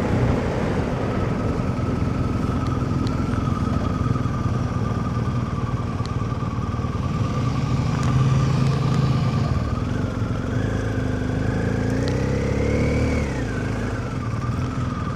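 BMW R1250GS boxer-twin motorcycle engine running on the move, recorded from the rider's helmet; the engine note climbs about two-thirds of the way through and drops back near the end.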